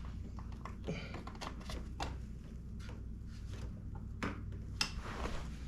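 Irregular clicks and light knocks of hand tools and parts being handled while working on a motorcycle, with a few sharper knocks near the end, over a steady low hum.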